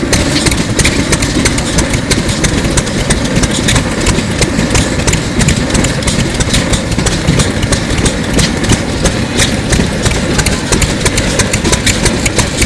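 A circa-1933 Sato 2 hp hot-bulb (semi-diesel) stationary engine running steadily with an even, repeating beat.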